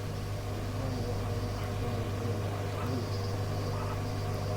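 Steady hum and hiss from an aviation radio receiver between transmissions, with no voice on the channel.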